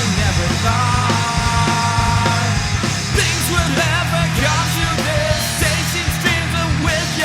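Alternative rock song playing: electric guitar, bass and drums, with a held high note over the first couple of seconds, then a voice singing from about three seconds in.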